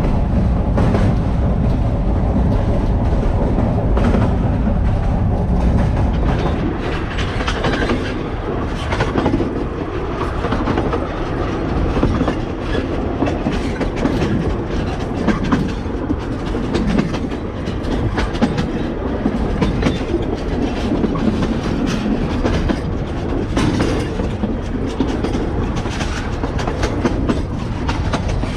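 Narrow-gauge passenger train running, heard from on board: a steady rumble of the carriage with wheels clattering over the rail joints. It is a little quieter after the first several seconds.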